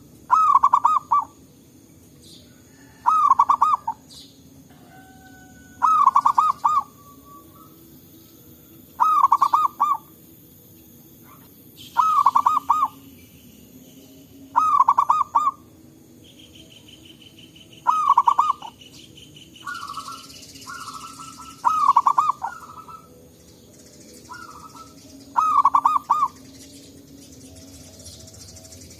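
Zebra dove (perkutut) cooing: a rapid, stuttering, warbled phrase about a second long, repeated roughly every three seconds. Around twenty seconds in, shorter calls from another bird overlap the cooing.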